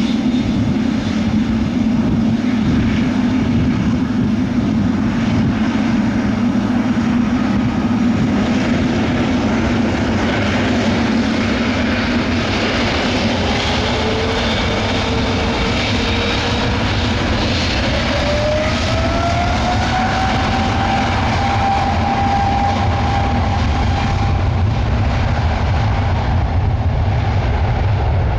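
Jet airliner engines at takeoff: a loud, steady roar with a deep rumble. An engine whine rises in pitch about halfway through, then holds.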